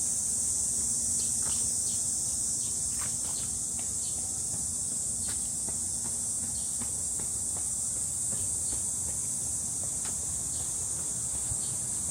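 Summer cicadas singing in a steady, high-pitched chorus in the woods, with faint irregular ticks of footsteps on the trail.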